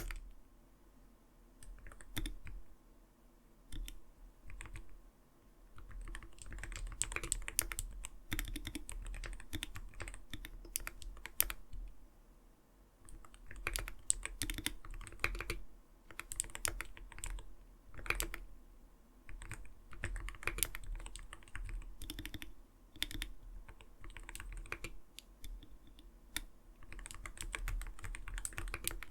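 Typing on an Arbiter Studio Polar 65 Phantom mechanical keyboard: runs of quick key presses with a soft, muted "kotokoto" clack, neither too light nor harsh. The runs are broken by brief pauses, the longest about a second in and around twelve seconds in.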